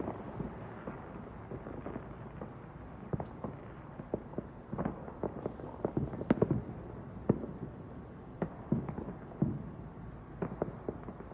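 Fireworks popping and cracking irregularly at a distance, a scatter of sharp cracks with a few louder bangs about six to seven seconds in.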